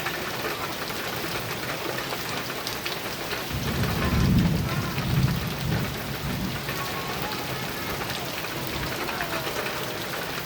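Heavy rain drumming steadily on a metal roof, with a rumble of thunder rising about a third of the way in, peaking twice and fading out a couple of seconds later.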